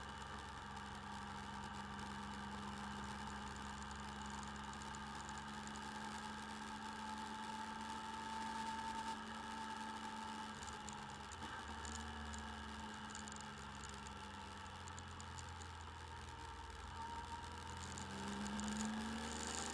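Motorcycle engine running steadily while riding, picked up by a bike-mounted camera's microphone, with the engine note rising near the end as it speeds up.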